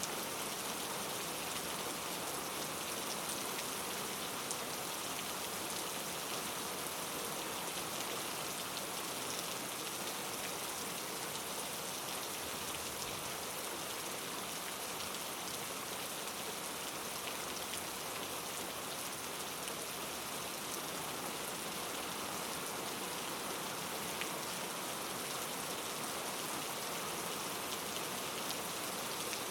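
Steady rain falling, an even hiss of many drops with small patters of individual drops now and then.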